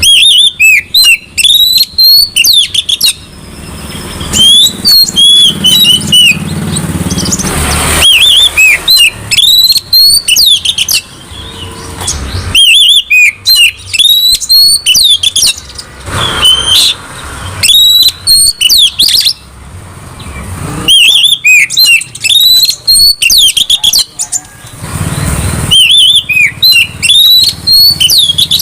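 Oriental magpie-robin (kacer) singing loudly in about seven phrases, each two to three seconds long, of rapid varied whistles and chirps with short pauses between them.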